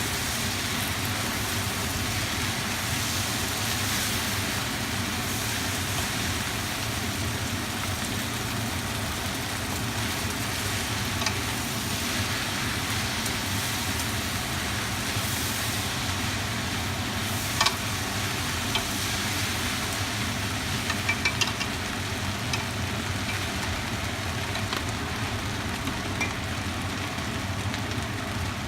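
Rice noodles stir-frying in a wok: a steady sizzling hiss, with a few sharp clicks in the second half.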